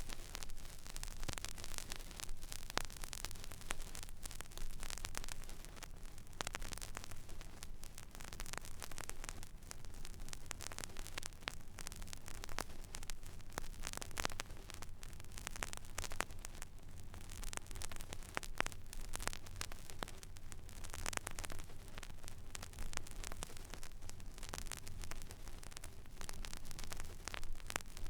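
Record player stylus riding an empty vinyl groove: steady surface hiss thick with crackles and small pops, over a low steady hum.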